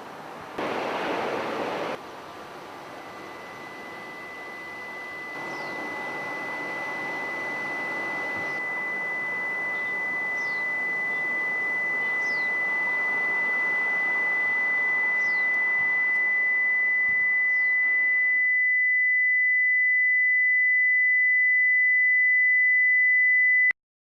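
A single high, pure electronic tone held at one pitch, slowly swelling louder and then cutting off suddenly near the end. Beneath it a noisy hiss, louder for a moment in the first couple of seconds, runs until about three-quarters of the way through and then stops.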